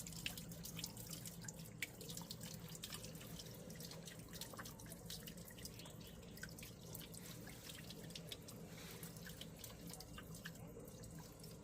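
Faint water dripping and trickling, many small irregular drops over a low steady hum.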